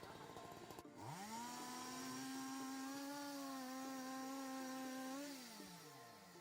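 A power tool's motor spinning up quickly to full speed, running steadily for about four seconds, then released and winding down in pitch as it coasts to a stop.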